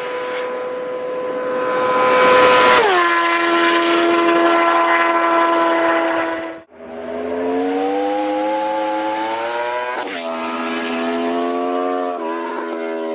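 Motorcycle engine revving hard with a high, steady note that drops sharply about three seconds in. After a sudden cut, it accelerates, its pitch climbing and then falling back twice as it shifts up through the gears.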